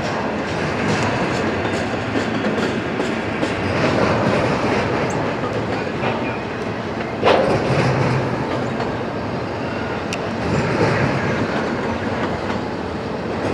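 Single-stack intermodal cars of a CSX freight train rolling past at slow speed, wheels clattering steadily over rail joints and switch work as the train crosses over between tracks, with one sharp bang about seven seconds in.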